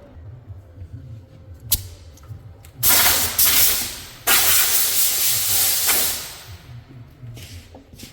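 Two long bursts of air hissing from a nozzle, each lasting about one and a half to two seconds, with a sharp click shortly before them.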